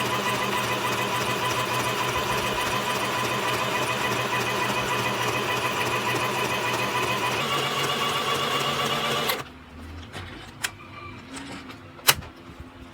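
Sew Simple K1127 domestic sewing machine running at its high speed setting, a steady whir that cuts off about nine seconds in. After it stops there are two sharp clicks, the louder one near the end.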